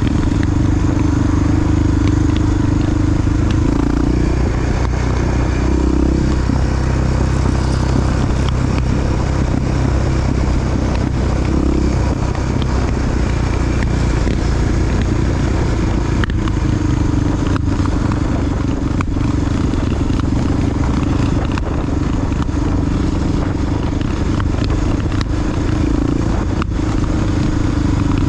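Honda XR single-cylinder four-stroke dual-sport motorcycle engine running steadily under way, loud and close, with scattered sharp ticks and clatter over it.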